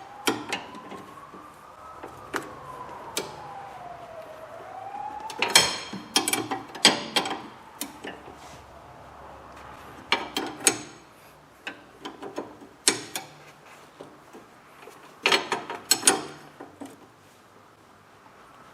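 Ratchet wrench clicking in several short bursts, with metal-on-metal clinks, as the lower nut of a new front stabilizer link is tightened on an Audi A4 B8. A faint tone slowly rises and falls in the first few seconds.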